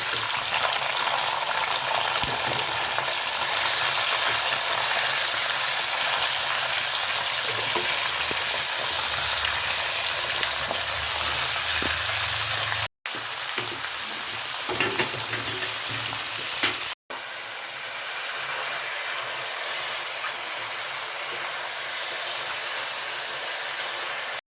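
Chopped chicken frying in hot mustard oil with whole spices, a loud steady sizzle that breaks off for an instant twice and is a little quieter after the second break.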